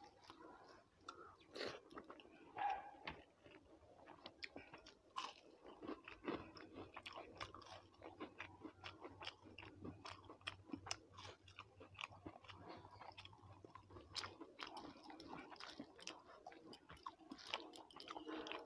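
Faint close-up chewing and crunching of crisp fried food and rice, made up of many small quick clicks and crackles.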